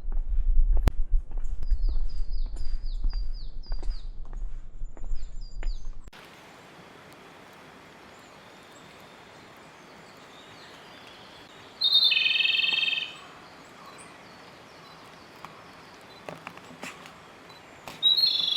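Small wild birds calling in forest: a run of short, falling chirps repeated over a low rumble and scattered knocks for the first six seconds, which then stop abruptly. After that the background is quieter, and a louder bird call sounds about twelve seconds in, lasting about a second, with another near the end.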